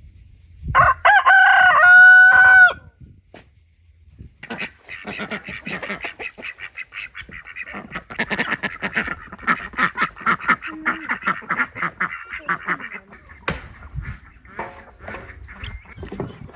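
A rooster crows once, about a second in, a loud held call that drops at the end. It is followed by a long run of rapid chattering calls from farmyard fowl.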